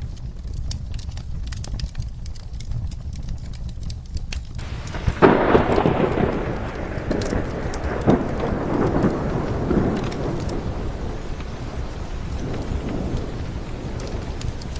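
Steady rain with a low background rumble, then a thunderclap about five seconds in that rolls on and slowly fades over several seconds.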